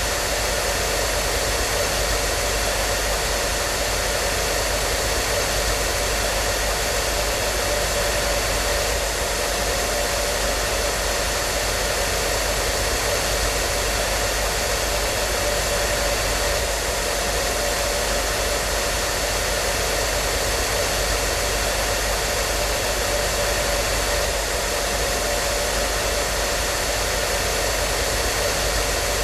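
Hair dryer running steadily, a constant airy whoosh with a faint steady motor hum.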